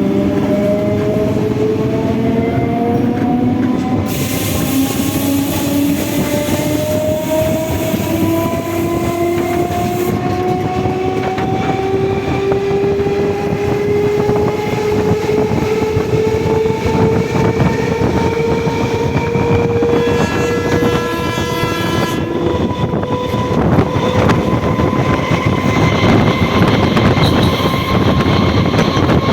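Indian Railways EMU electric train accelerating, its traction-motor whine rising slowly and steadily in pitch. A short horn blast sounds about two-thirds of the way through. Near the end the wheels clatter over the rail joints as speed builds.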